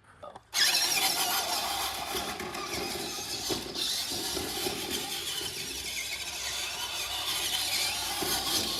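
RC monster truck driving, its motor and gears whining with a shifting high pitch; it starts about half a second in.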